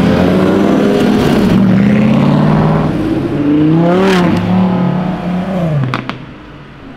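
Audi R8 V10 Plus's V10 engine revving loudly as it drives past: the note climbs, drops sharply at an upshift about four seconds in, then falls away near the end. A few sharp cracks sound as it fades.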